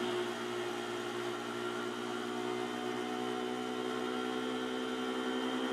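Pit bike's small engine running at a steady low speed, holding an even pitch.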